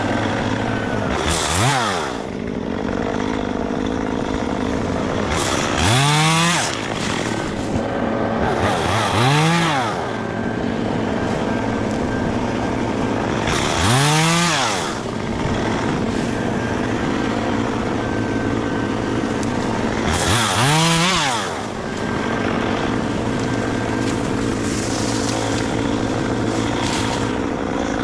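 Gas chainsaw running at idle, revved up and let back down about five times in short bursts of about a second each.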